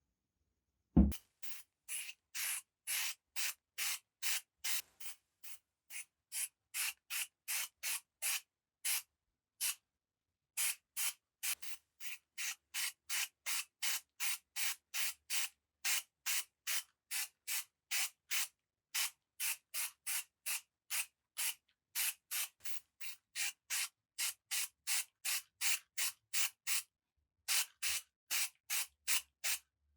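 A single sharp knock about a second in, then steady back-and-forth hand sanding strokes, about three a second, pausing briefly a few times.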